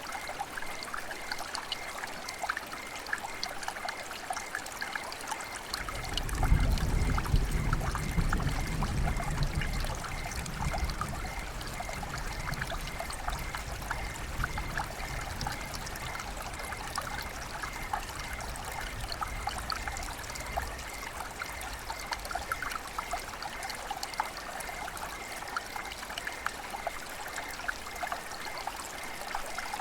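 River water flowing and babbling steadily over rocks, with many small splashes and trickles. About six seconds in, a deep low rumble swells up and then fades away over the next several seconds.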